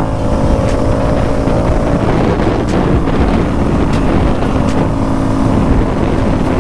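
450cc dirt bike engine running at a steady cruising pace, holding an even note, with heavy wind buffeting on the microphone.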